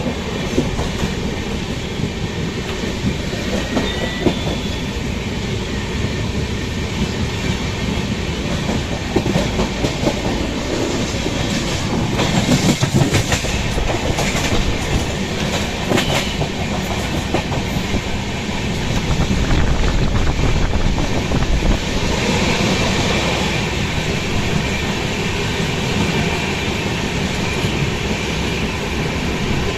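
Coromandel Express passenger train running, a steady rumble with the wheels clattering over the rail joints, a little louder in a couple of stretches.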